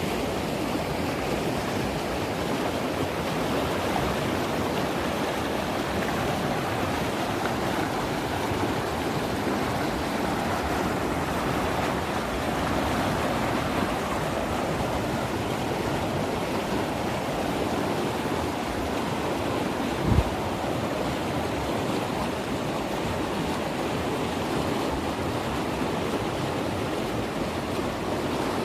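A river in flood, rushing steadily and swollen by heavy rain. A single brief low thump comes about two-thirds of the way through.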